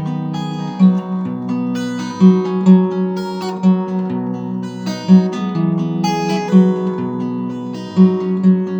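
Acoustic guitar playing an instrumental passage alone, picked and strummed chords with a regular beat.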